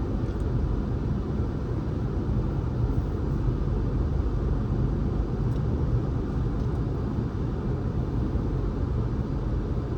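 Steady low rumble of a car driving: road and engine noise with no distinct events.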